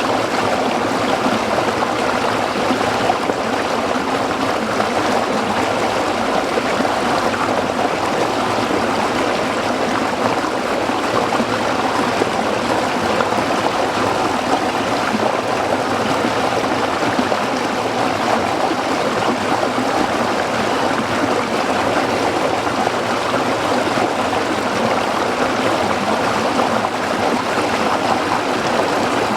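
A small stream flowing over rocks, a steady babbling rush of water without pauses or changes.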